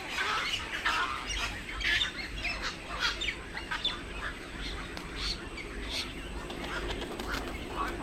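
Several birds calling at once: a busy run of short chirps and squawks, overlapping throughout.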